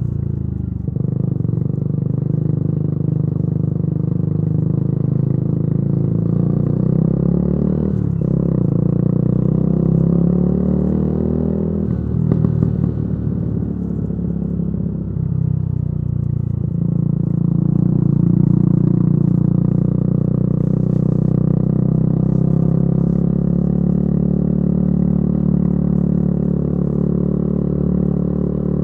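Yamaha YZF-R125's single-cylinder 125 cc four-stroke engine running through a modified exhaust while riding, the engine pitch climbing with the revs and dropping at gear changes about a second, eight seconds and twelve seconds in. A brief crackle from the exhaust comes around twelve to thirteen seconds in.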